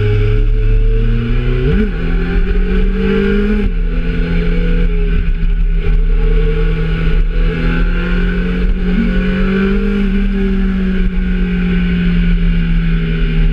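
Kawasaki Z750's inline-four engine running, its pitch rising sharply about two seconds in and dropping back a couple of seconds later, then holding fairly steady with small wavers.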